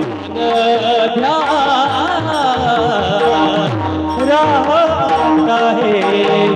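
Devotional bhajan singing from a Warkari kirtan: a solo voice carrying a wavering, ornamented melody over sustained instrument tones and steady drum strokes.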